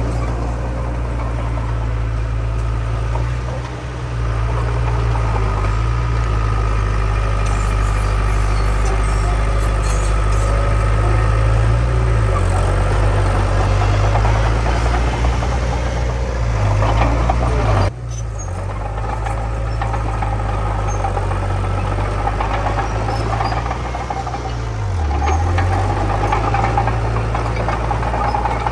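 Diesel engine of heavy earthmoving machinery running steadily, its speed shifting up and down a few times, with a sudden short break about eighteen seconds in.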